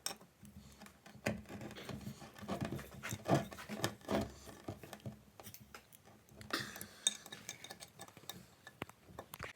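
Metal clinks, knocks and a brief scrape as steel parts of a rusty vise and hand tools are handled on a workbench. A cluster of knocks comes in the first half, and a scrape follows about two-thirds of the way in.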